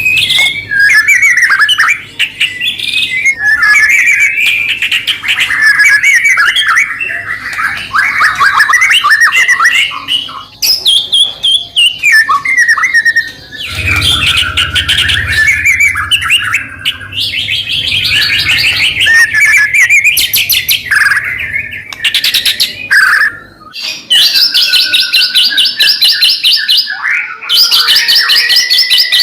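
White-rumped shama (murai batu) singing a long, nearly unbroken run of varied phrases, with rapid trills and sharp whistled notes and only brief pauses.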